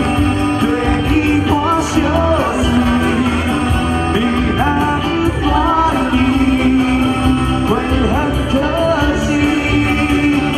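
Live band music: a song played by the full band, with a gliding melody line over a steady bass.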